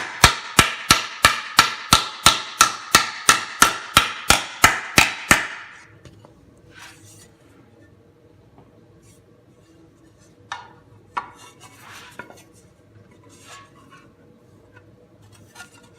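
Rounded-end body hammer striking sheet metal over a dished Delrin anvil in steady blows about three a second, each with a short metallic ring, stretching the metal to roll its edge into a tight radius. The hammering stops about five seconds in, followed by a few light knocks and rustles as the piece is handled.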